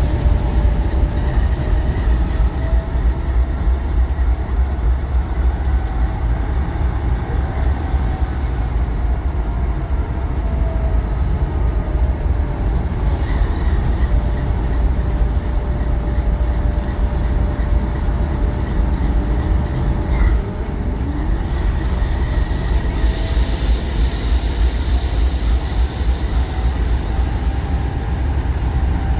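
Diesel locomotives and a train moving, a heavy steady low rumble with thin wavering wheel squeals over it. A brighter hiss comes in about two-thirds of the way through.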